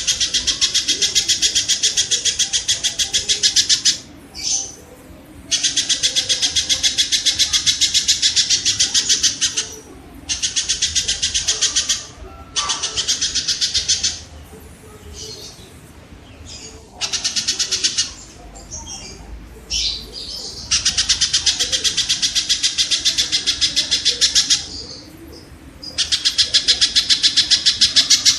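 Kingfisher calling in fast, high rattling trills, several bouts of a few seconds each with short breaks between them, and a few fainter single calls in the breaks.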